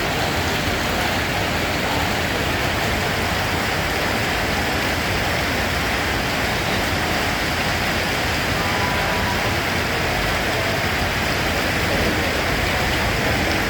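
Steady rain falling: a continuous, even hiss with no thunder or separate drops standing out.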